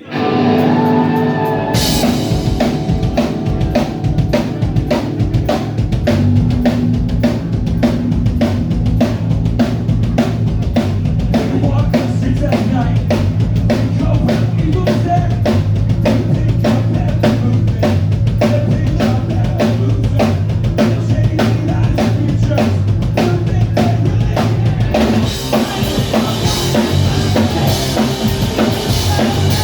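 A live rock band playing a song: full drum kit with bass drum and snare keeping a fast, steady beat under bass and electric guitars. The music starts right at the beginning and shifts to a brighter, busier section about 25 seconds in.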